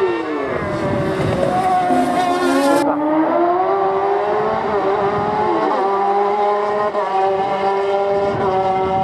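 Hill-climb race car engine at high revs, its pitch climbing and then dropping back at each gear change, a few times over.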